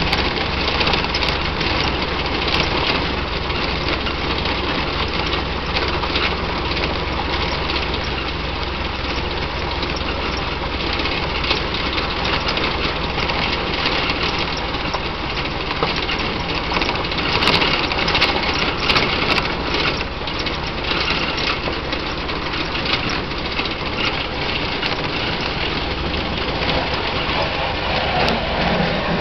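A 1927 Ford Model T's four-cylinder engine running as the car drives along a gravel road, mixed with a steady noise from the road and the moving car, and a few clicks or rattles partway through.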